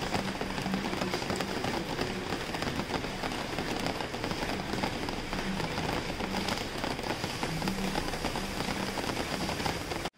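Steady rain falling on a hard surface, a dense patter of individual drops. It cuts off abruptly just before the end.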